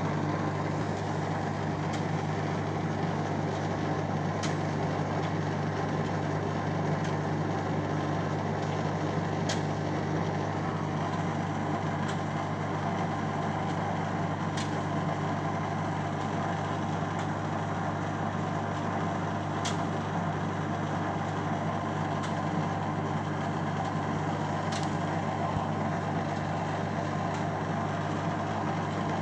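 Beko Eco Care WMA 1510 W washing machine running a rinse: a steady motor hum with a sharp tick about every five seconds. The rinse is running without any cold water filling, a fault in the machine.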